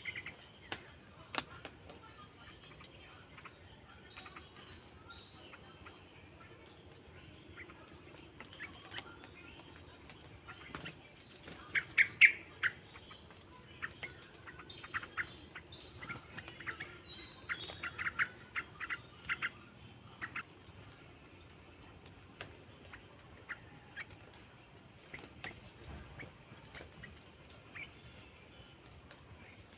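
A bird giving short, sharp chirps, in scattered clusters that are loudest about twelve seconds in and busiest between about fifteen and twenty seconds, over a steady high-pitched trill of insects.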